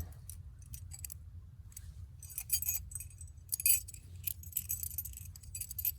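Light metallic jingling and clinking of camp gear being handled, in clusters through the second half, over a low steady rumble.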